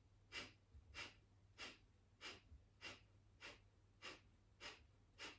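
Kapalabhati breathing: a woman's short, forceful exhales snapped out through the nostrils, a whooshing pump about nine times at an even pace of a little under two a second, with quiet passive inhales between.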